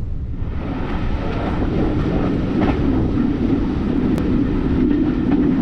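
Steady rumble and rattle of a steam-hauled railway carriage running along the track, heard from inside the carriage. It gets a little louder about a second in.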